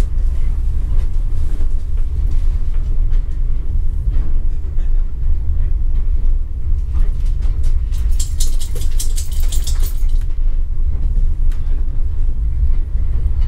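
Steady low rumble of a heritage train heard from inside a passenger coach as it rolls slowly along. A high hiss lasts about two seconds past the middle.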